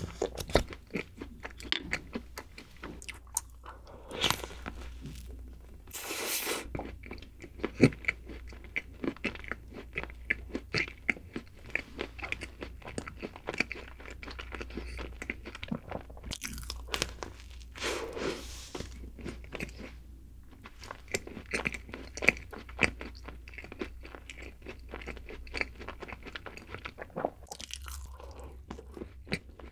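Close-miked eating of a chocolate-coated round snack cake spread with Nutella: bites and steady chewing, with many sharp clicks and crackles and wet mouth sounds.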